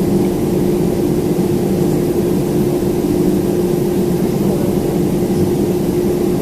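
Steady drone of a Boeing 767-400ER's jet engines at idle, heard inside the passenger cabin, with a constant hum tone over a low rumble.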